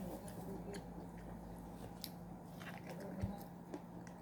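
Faint biting and chewing on corn on the cob, with scattered small crunchy clicks.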